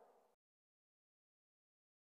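Near silence: digital silence.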